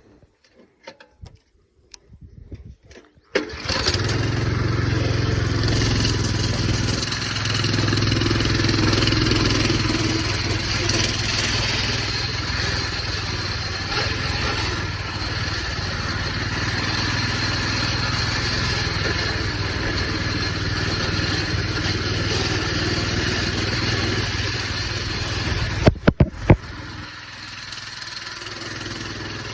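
Coleman BT200X minibike's single-cylinder four-stroke engine, with its governor bypassed, starting about three seconds in after a few faint clicks and then running steadily. A few sharp knocks come near the end, after which the engine runs on more quietly.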